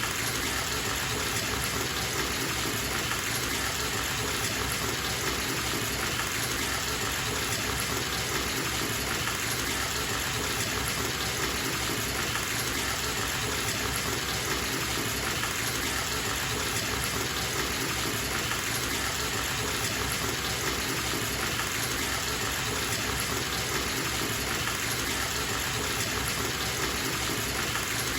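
Bathtub tap running steadily into the tub as it fills: a constant gushing rush of water with no change throughout.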